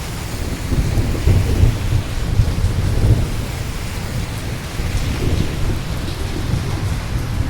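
Steady rain falling, with thunder rumbling low underneath. The rumble swells about a second in and again a little past the middle.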